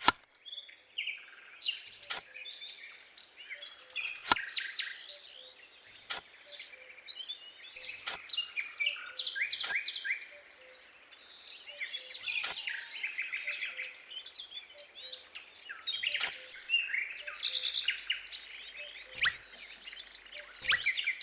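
Birds chirping and trilling, many short quick calls overlapping, with a sharp click every two seconds or so.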